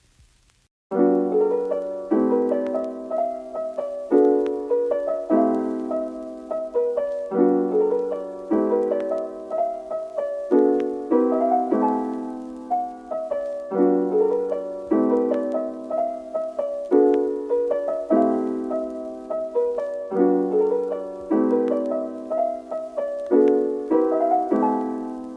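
Background music: gentle piano playing a slow, repeating pattern of chords, starting about a second in.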